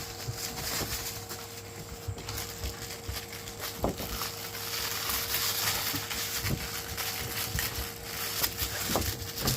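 German shepherd puppies scuffling and playing, a busy rustling and crackling with scattered clicks and knocks.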